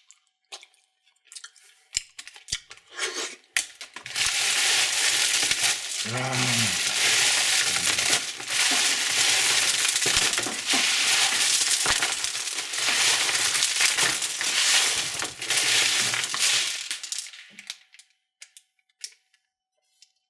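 Crinkly wrapper being handled and torn open by hand: a few clicks and rustles, then about thirteen seconds of continuous crackling and crinkling that stops near the end.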